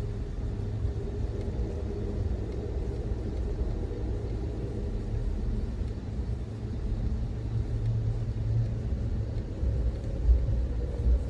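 Steady low rumble of an Amtrak Auto Train passenger car riding over the rails, with a faint steady hum above it and one louder thump about ten seconds in.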